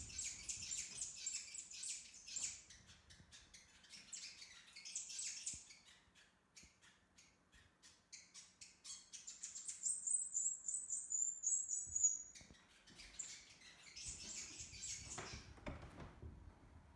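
Small birds chirping in quick, high-pitched clusters, with a stretch of rapid ticks in the middle and a thin, slightly falling high trill about ten seconds in.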